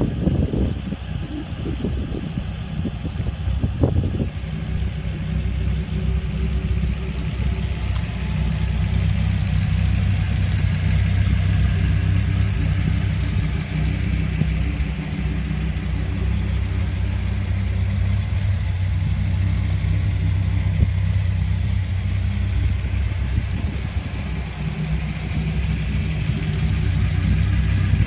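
Dodge Viper SRT10's 8.3-litre V10 idling steadily, with a brief knock about four seconds in.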